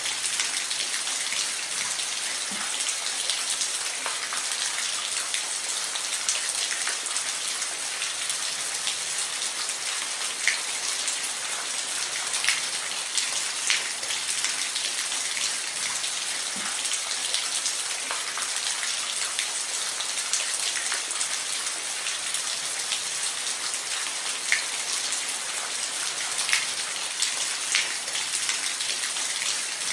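Steady rain falling on a roof, a continuous hiss with individual drops ticking sharply every second or two.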